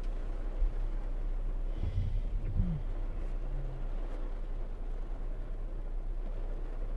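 Heavy wind-driven rain beating on a car's roof and windscreen, heard from inside the car as a steady hiss over a constant low hum. A brief faint voice-like sound comes about two and a half seconds in.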